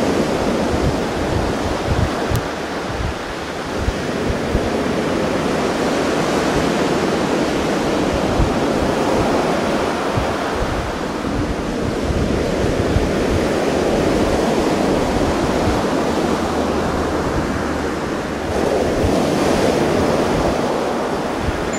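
Sea surf washing in waves of rising and falling noise, with wind buffeting the microphone.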